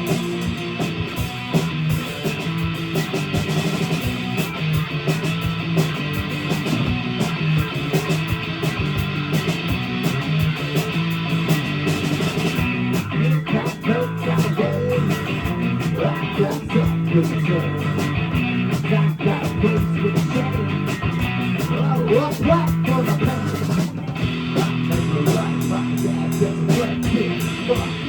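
A live rock band playing an instrumental passage: distorted electric guitar over a drum kit with a steady beat.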